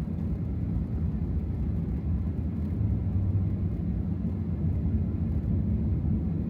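A 2024 Ram TRX's supercharged V8 and tyres running steadily while it drives on a snow-covered road, a low rumble that holds even throughout.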